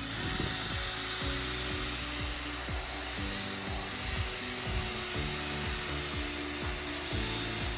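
Background music over a steady abrasive rubbing noise from the car's paint being finished after the dent repair.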